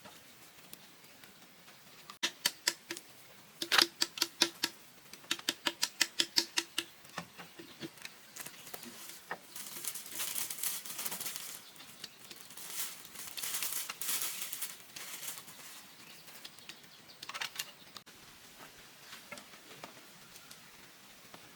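A quick run of sharp taps or knocks, about three to four a second, followed a few seconds later by a stretch of rasping scraping.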